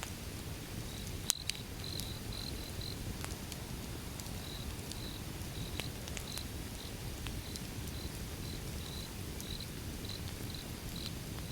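Wood fire burning with a steady low hiss and scattered sharp crackles, with one loud pop about a second in. A high chirping in short repeated pulses runs under it.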